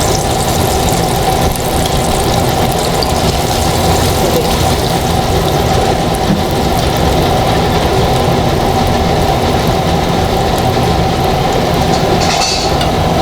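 A loud, steady machine hum and rush that runs on without a break, the constant drone of a running kitchen appliance.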